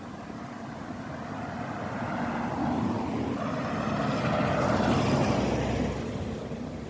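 A road vehicle passing by, its engine and tyre noise swelling to a peak about five seconds in and then fading.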